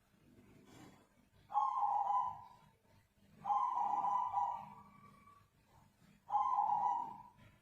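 Zebra dove giving three drawn-out cooing notes, each about one to two seconds long, with short gaps between them.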